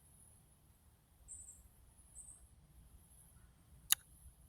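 Quiet background with a faint low rumble, two brief faint high-pitched chirps, and one sharp click about four seconds in.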